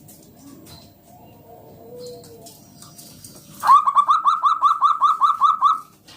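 Zebra dove (perkutut) singing: a loud, rapid run of about a dozen short rising notes starting about three and a half seconds in, lasting about two seconds.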